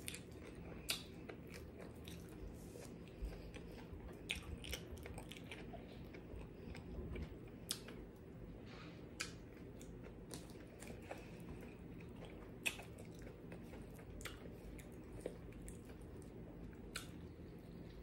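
Close-miked chewing and biting of fried okra, quiet, with soft crunches and wet mouth clicks at irregular intervals. Near the end comes a sharper bite into a fried fish sandwich.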